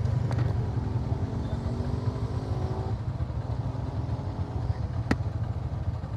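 Motorcycle engine running under way, its pitch rising gently through the first three seconds and then holding steady. A single sharp click about five seconds in.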